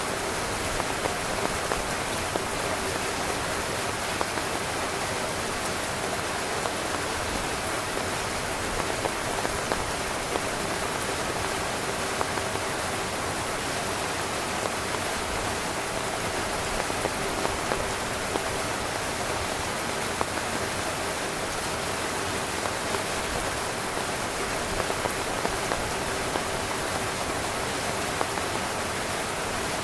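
Heavy rain drumming steadily on a tent's fabric, a dense hiss of drops with many small, sharper drop hits scattered through it.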